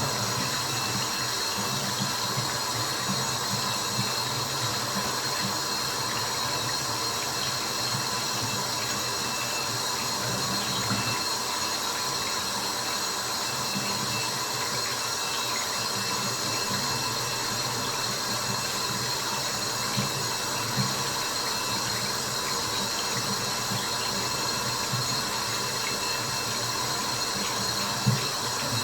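Steady white-noise hiss layered with dripping water drops, with a few sharper, louder drops in the second half.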